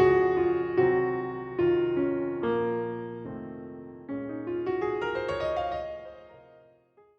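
Background piano music: single notes struck at a slow, even pace, then a rising run of notes that fades out near the end.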